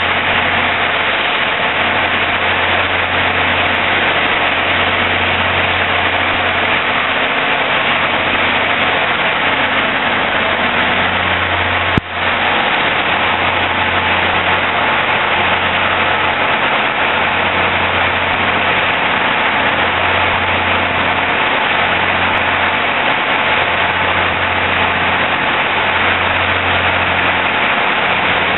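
Steady, loud engine rumble of a locomotive while an Amtrak passenger train rolls past and pulls out of the station. A single sharp click about twelve seconds in.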